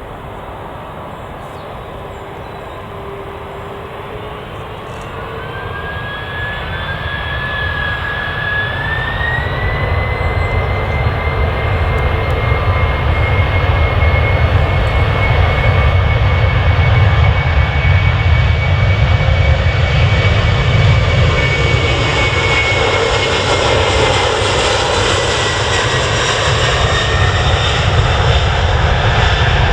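Jet airliner's engines spooling up: a whine rises in pitch and then holds steady while a deep rumble builds over several seconds and stays loud, easing slightly in pitch near the end.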